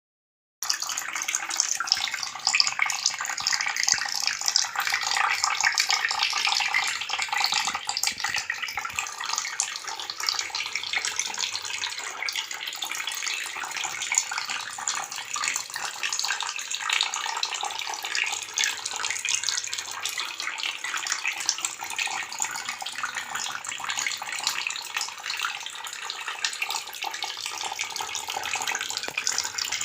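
Steady rush of splashing water, starting abruptly about a second in and holding an even level.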